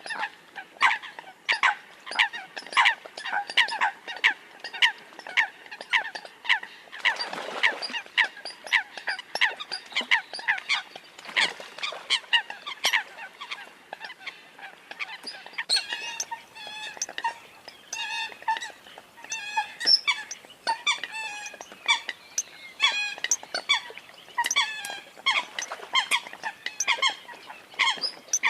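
Eurasian coots calling: a continuous run of short, sharp, honking calls, about two or three a second.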